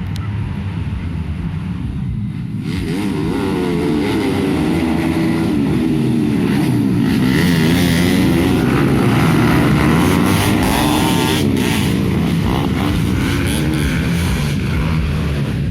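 Several dirt bike engines revving together on a grasstrack or motocross circuit, their pitches rising and falling as they accelerate and shift. They get louder from about three seconds in.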